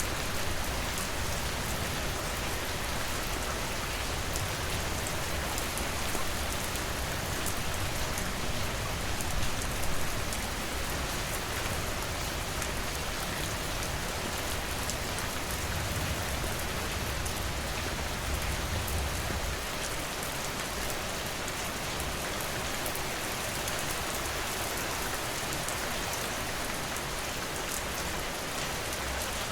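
Steady rain falling, a dense hiss of drops on a surface with fine ticks of single drops. A low rumble swells underneath between about 15 and 20 seconds in.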